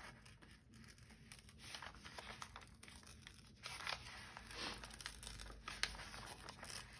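Flat brown paper bag being slowly pried open by hand at a glued seam: faint, intermittent paper tearing and crinkling in short scratchy bits.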